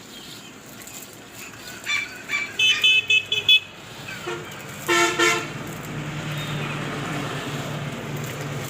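Vehicle horn tooting in a string of short beeps, then one longer blast about five seconds in, followed by a steady low hum with a hiss.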